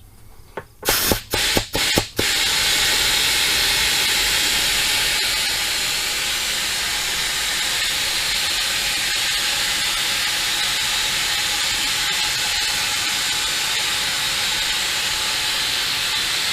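Compressed air hissing from an air chuck into a tractor tire's inner tube through its repaired valve stem: a few short spurts about a second in as the chuck is pushed on, then a steady loud hiss as the tube inflates.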